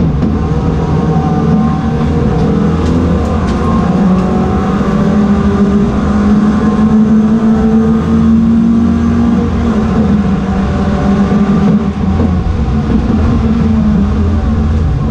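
Ford Fiesta race car's engine running hard at high revs, its pitch rising and falling gently over several seconds, with steady road noise underneath.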